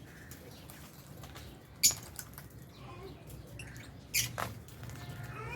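Lovebirds in an aviary: a few short, sharp chirps, the loudest just before two seconds in and another about four seconds in, over faint scattered ticking.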